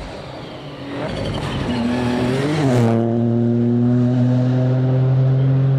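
Rally car engine approaching and growing louder from about a second in. Its pitch briefly rises and falls around two and a half seconds in, then holds a steady note. A hiss stops about three seconds in.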